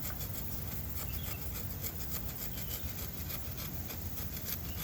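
Saw cutting into bamboo: a steady run of rasping back-and-forth strokes, several a second.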